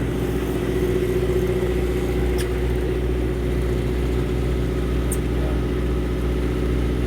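A fishing boat's engine running steadily with an even, unchanging hum, and a couple of faint ticks.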